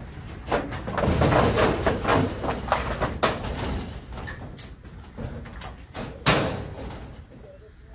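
Clattering, knocking and scraping of old shed boards and parts being pulled apart and handled, with a loud bang about six seconds in.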